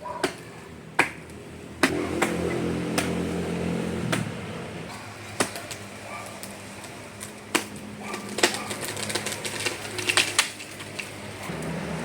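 Scattered sharp clicks and knocks, coming in quicker succession about two-thirds of the way in, over a low steady hum.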